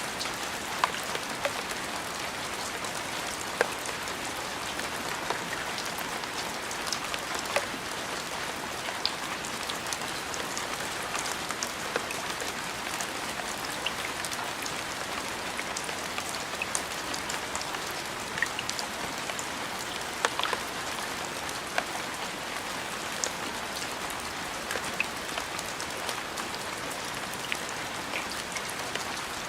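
Steady rain falling, with many individual drops ticking sharply on a hard surface close by.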